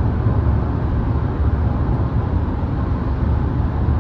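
Steady low rumble of road and tyre noise heard inside the cabin of a moving 2025 Volvo XC60 T8.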